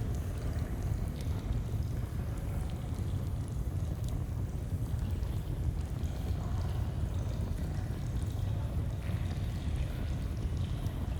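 Steady rush of flowing stream water, with a campfire crackling in scattered small pops.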